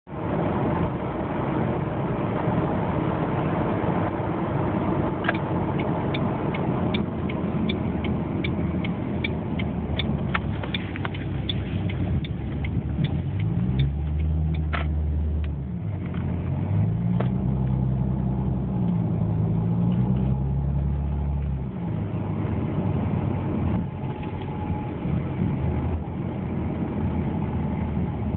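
2006 Ford Mustang's 4.0-litre V6 through a Flowmaster Super 44 dual exhaust with X-pipe, under a steady rush of road and wind noise. Partway through the engine note climbs, drops and climbs again, as in upshifts under acceleration, and a run of sharp ticks comes before it.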